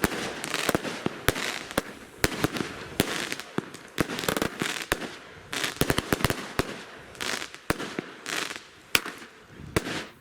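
Consumer firework cake firing: a fast, irregular series of sharp bangs with crackling between them, thinning out and stopping near the end.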